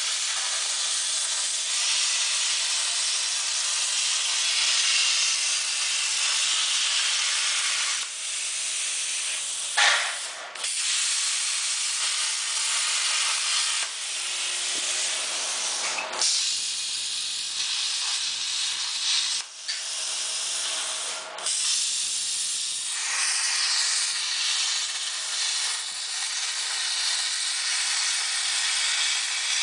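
CNC plasma cutter's arc hissing steadily as it cuts sheet metal. Four sharp clicks and several brief dips break up the hiss.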